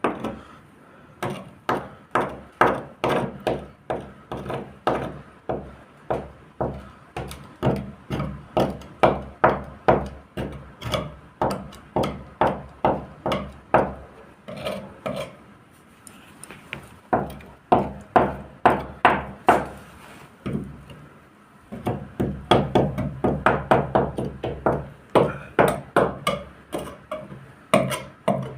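Repeated sharp knocks, about two a second, in long runs broken by a few short pauses.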